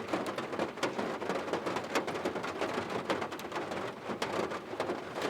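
Steady rain falling, with many separate drop hits heard through it.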